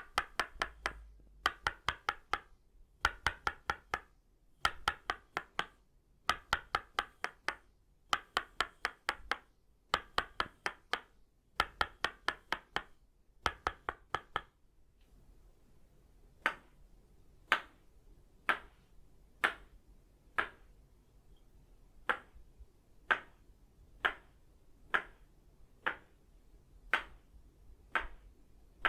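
Tok Sen massage tools of itaúba wood, a wooden mallet tapping on a wooden stake. For the first half it strikes in quick flurries of several taps, then it changes to single, crisper taps about once a second.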